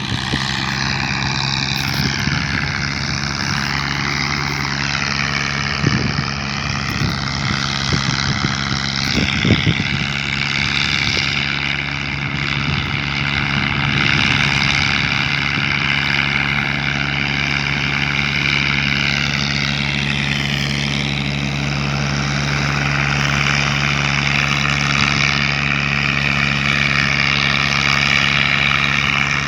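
Diesel tractor engine running steadily while hauling a load of wood, with a higher whine that drifts a little in pitch. A few short knocks or rattles come around six and again around ten seconds in.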